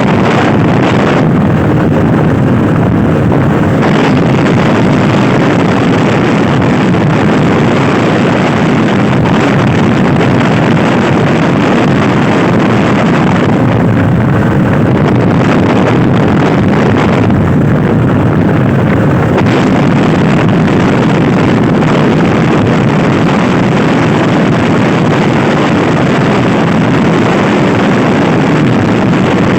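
Loud wind buffeting the microphone of a Honda Scoopy i scooter riding at speed, with the scooter's engine running underneath, steady throughout.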